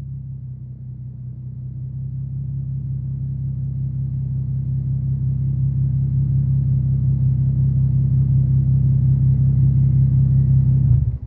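Infiniti G37's 3.7-litre V6 running steadily through a custom Y-pipe-back exhaust: a low, even drone at constant pitch that grows gradually louder, then stops abruptly near the end.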